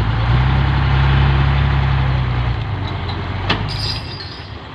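Soil-hauling truck's engine running hard, a steady low drone that eases off about two and a half seconds in. A sharp knock comes about three and a half seconds in, followed by a brief high hiss.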